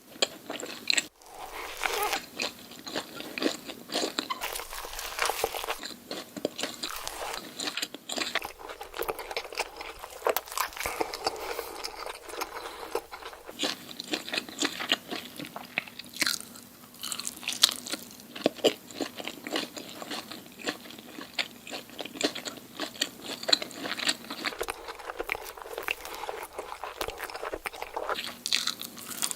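Close-miked eating: crunchy food being bitten and chewed, with dense, irregular crackling crunches.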